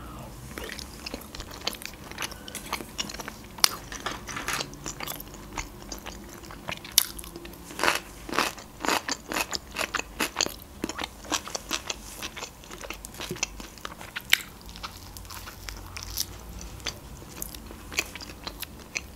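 Close-miked chewing of raw red fish (trout): irregular wet mouth clicks and smacks, several a second, with a louder cluster about halfway through.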